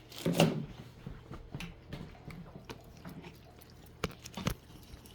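Scattered light clicks and knocks of a bowl and utensils being handled while making noodles, with a louder rustle just under half a second in and two sharper knocks about four seconds in.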